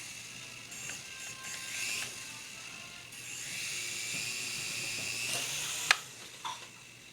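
Small toy helicopter's electric motor and rotor whirring, rising and falling in level, with a sharp knock about six seconds in, after which the whir stops.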